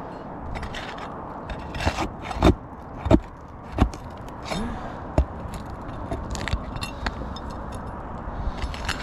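Steel flat bar scraping and clicking against asphalt shingles while roofing nails are pried out, with a few sharp metal knocks in the first half.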